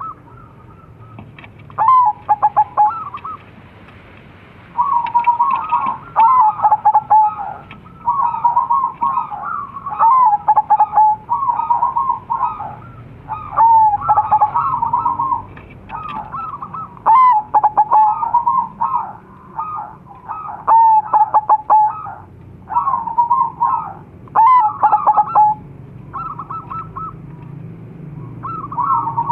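Crossbred zebra doves (perkutut) cooing, each call a quick stuttering run of coos, repeated phrase after phrase with short pauses.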